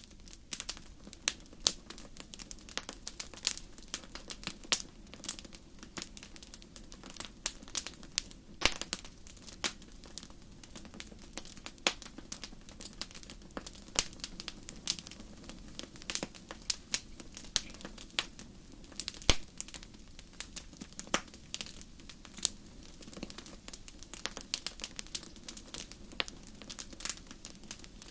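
Wood fire burning in a fireplace, crackling with irregular sharp pops and snaps, several a second, over a low steady murmur of the flames.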